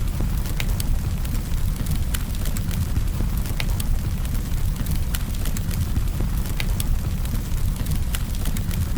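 Campfire burning, with a steady low rumble and frequent sharp crackles and pops at irregular intervals.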